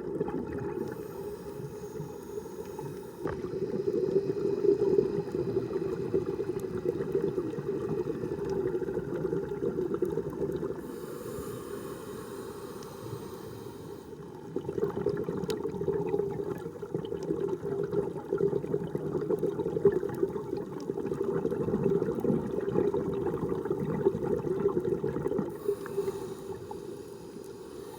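Muffled underwater sound of water movement and bubbling, swelling and fading over several seconds.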